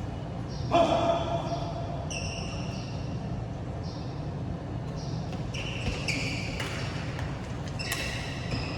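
Badminton play on an indoor court: shoes squeaking on the court floor in short high-pitched chirps, with a few sharp racket-on-shuttlecock hits. There is a brief louder burst about a second in.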